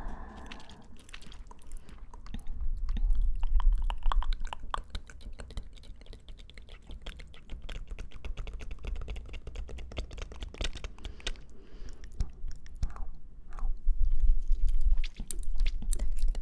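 Close-miked chewing of crisp fresh fruit: a dense run of wet, crunchy clicks from biting and mashing, louder about three to four seconds in and again near the end.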